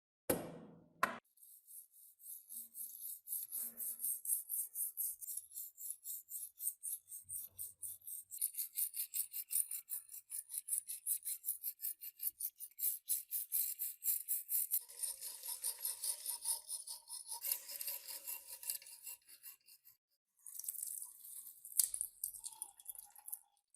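Rapid back-and-forth scraping strokes of a hand tool on a part of an antique kerosene table fan, about four to five strokes a second. There is a short pause about twenty seconds in and a sharp knock near the end.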